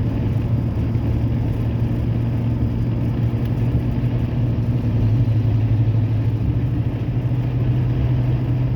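Muffler-deleted exhaust of a 2003 Ford Ranger's 4.0L V6, catalytic converters still in place, cruising steadily in fifth gear, heard from inside the cab: a steady low drone.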